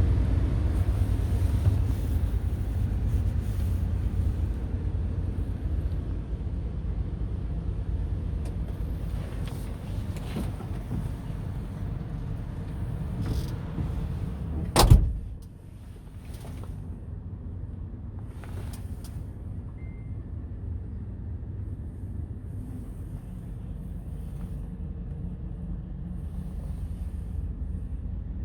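Scania R tractor unit's diesel engine idling steadily, with scattered light clicks and one loud thump about halfway through, after which the engine sounds quieter.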